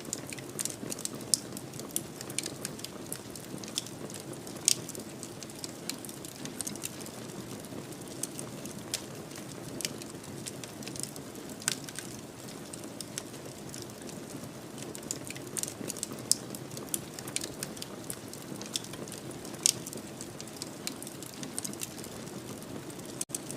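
Fireplace fire crackling: a steady low rush of flame with frequent irregular pops and snaps, a few of them sharply louder. A momentary dropout near the end.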